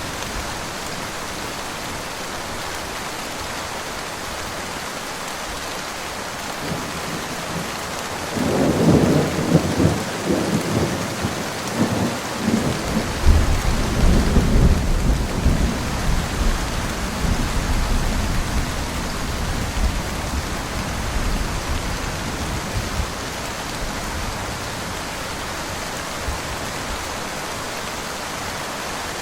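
Steady rain falling, with a thunderclap about a third of the way in: a crackling onset that rolls into a deep rumble for about ten seconds before fading back under the rain.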